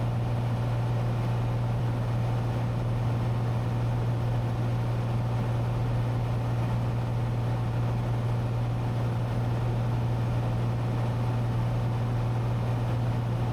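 Cessna 182T's six-cylinder Lycoming IO-540 engine and propeller droning steadily in cruise flight, a low, even hum that does not change.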